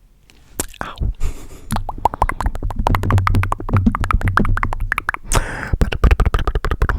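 Fast ASMR mouth sounds close to a sensitive microphone: rapid tongue clicks and wet pops, a few at first, then a dense run of about ten a second.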